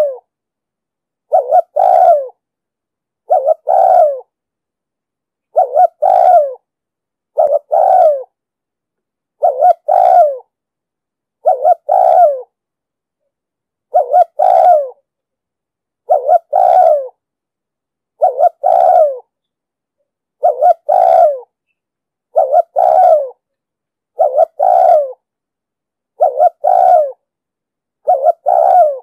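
Spotted dove cooing: a short note followed by a longer coo, the two-part phrase repeated steadily about every two seconds. It is a dove-call recording of the kind played to lure and train doves.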